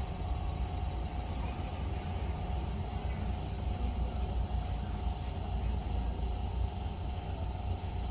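Toyota Corolla GLi engine running steadily: an even low rumble with a faint steady whine over it.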